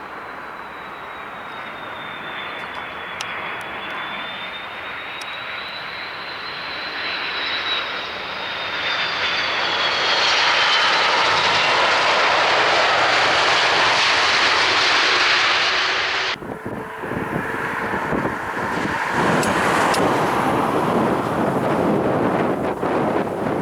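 An airliner's engines pass close by with a high whine that falls in pitch as the noise swells to its loudest. About two-thirds of the way in the sound cuts off abruptly and is replaced by another aircraft's engine noise, buffeted by wind on the microphone.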